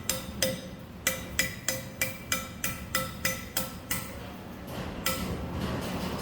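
Hammer blows on iron wire or metal, each strike ringing briefly with a metallic tone. There are about three blows a second, a pause a little before the 4-second mark, then one more blow about a second later.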